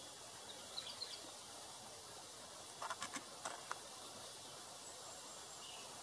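Faint high bird chirps about a second in, then a quick cluster of five or six short sharp ticks near the middle, over a steady hiss.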